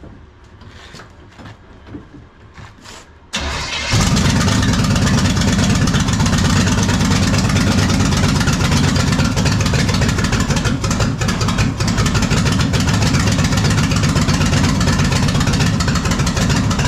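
Small-block V8 race engine with a roller cam, out of a NASCAR car, fired up: a brief crank about three and a half seconds in, catching half a second later, then running loud and steady.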